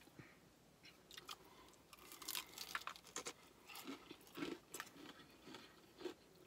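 Close-up chewing and crunching of a crispy fried chicken wing, in irregular crackly bites, after a single sharp click at the very start.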